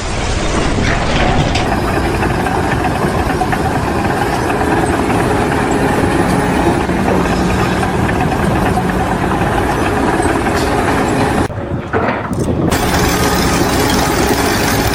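A heavy engine running steadily, with a short break in the noise about two-thirds of the way through.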